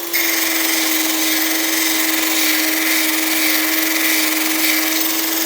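Electric drill bit sharpener running with a steady motor hum while a drill bit is ground against its wheel, giving a harsh grinding hiss over the hum. This is the second side of the bit's tip being sharpened.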